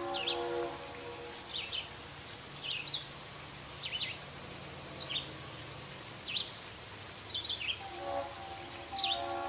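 A bird chirping repeatedly, short quick notes about once a second, over a distant locomotive horn: its several-note chord fades out about half a second in and sounds again from about eight seconds in.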